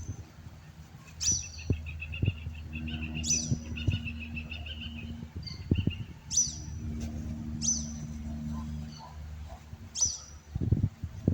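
Birds calling: a short, sharp, high chirp that drops slightly in pitch, repeated every second or two, with a fast, lower trill from a second bird in the first half. A low steady hum and a few soft knocks sit underneath, strongest near the end.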